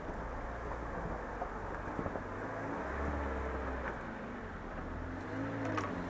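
Off-road 4x4's engine running, its revs rising and falling, with a few short knocks along the way.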